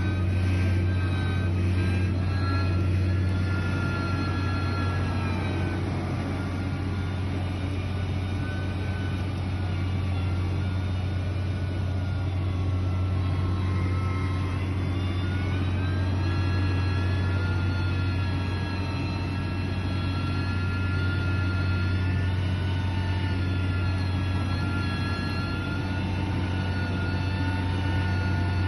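Heavy diesel construction machine running steadily with a deep engine hum and a higher whine. The whine drops twice and rises again as the engine load or revs change.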